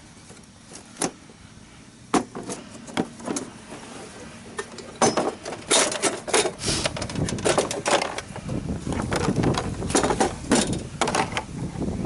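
Irregular clattering and knocking of hard objects being handled, a few scattered knocks at first and a busy run of them from about five seconds in.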